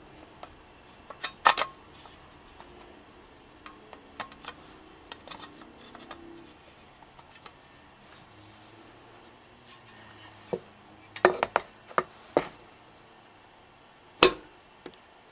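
Scattered sharp knocks and clacks of hard parts being handled and set down on a workbench: a couple about a second and a half in, a quick cluster later on, and one loud knock near the end.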